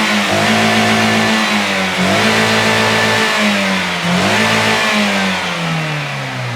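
Toyota GLi car engine, its valve tappets freshly adjusted, revved up and held several times, with short dips about two and four seconds in, then winding down near the end.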